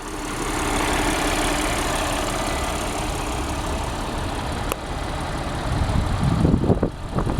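The 2013 Audi S4's 3.0-litre supercharged V6 idling steadily, with one sharp click about 4.7 s in.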